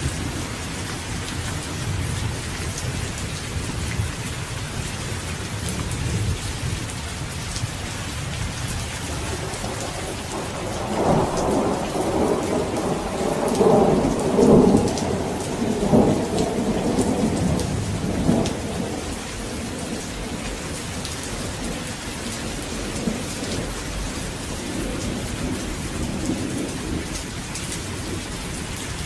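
Steady heavy rain falling, with a long roll of thunder about a third of the way in that swells through several peaks and dies away after about eight seconds; a fainter low rumble runs under the rain before it.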